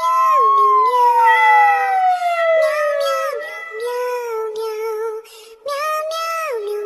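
Cat meowing and wailing in drawn-out, bending calls, over a long tone that rises and then slides slowly downward. The calls break off briefly a little past the middle.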